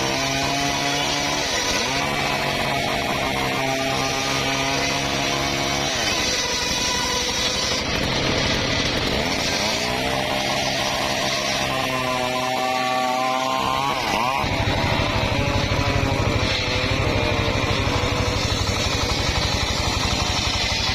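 Engine-powered saw cutting timber: the engine runs steadily under load, its pitch dipping and recovering several times. About two-thirds of the way in, the sound changes to a rougher, steady buzz.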